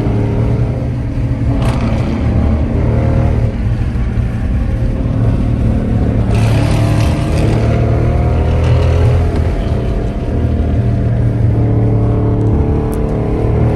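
Car engine and exhaust running steadily with a loud low rumble, the engine note changing only a little.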